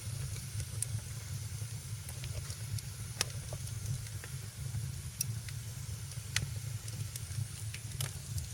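Wood fire burning in a fireplace: a steady low rumble of the flames under a faint hiss, broken by scattered sharp crackles and pops, the loudest about three and six seconds in.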